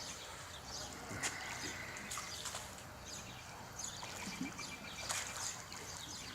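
Faint outdoor ambience: scattered bird chirps over light water sounds from the swimming pool, the water lapping after the earthquake shaking.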